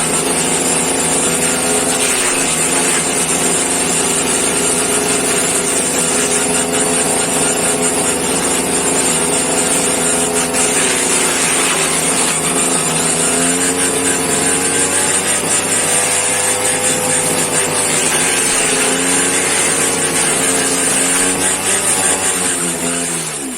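Homemade grass-chopper machine running hard, its motor hum wavering and dipping in pitch over a loud rushing hiss, then slowing down near the end.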